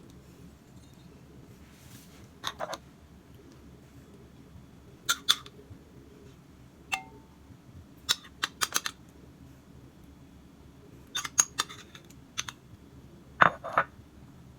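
Scattered short clicks and clacks of small objects being handled, in about seven small clusters of two or three, over a low steady hum. The loudest cluster comes near the end.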